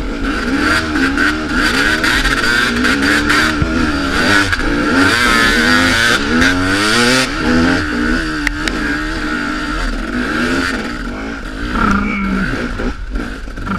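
Dirt bike engine revving up and down as the throttle is worked while riding a woods trail.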